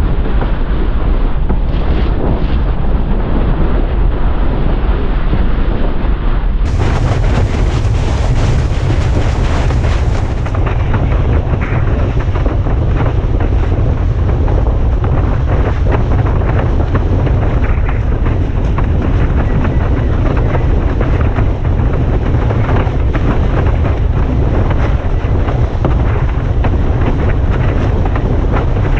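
Strong wind buffeting a head-mounted GoPro's microphone while windsurfing, a loud gusty rush with water noise under it. It gets fuller and heavier about seven seconds in.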